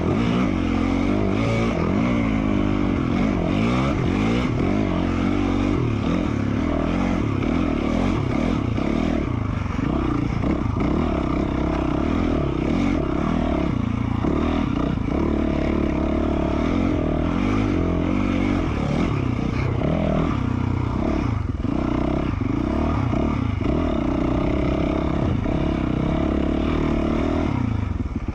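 2020 Yamaha YZ450F dirt bike's single-cylinder four-stroke engine, fitted with an FMF Q4 slip-on exhaust, running under way on a trail ride, its engine speed rising and falling continuously as the throttle is worked.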